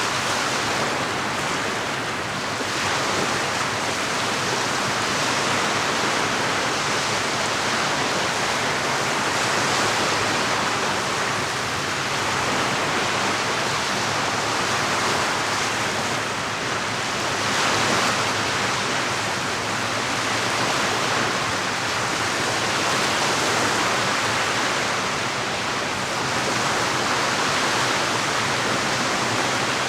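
Lake water washing against the shore: a steady rush that swells and eases every several seconds.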